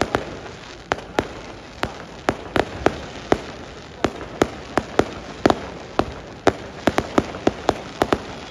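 Fireworks going off: a string of sharp bangs at irregular intervals, two or three a second, over a steady crackling hiss.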